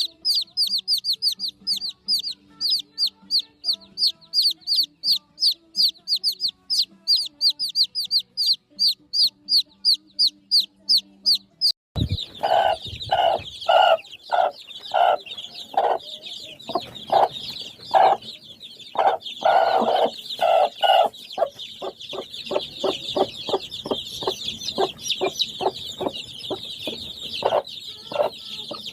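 Chickens. For about twelve seconds there is a fast, even run of high, falling chirps, about three a second. Then the sound changes abruptly to irregular loud clucking.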